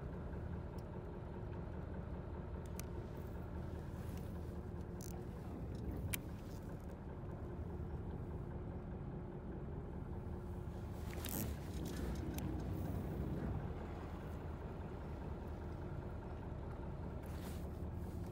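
Fishing boat's engine running steadily, with a few sharp clicks and knocks, one about six seconds in and a cluster around eleven to twelve seconds.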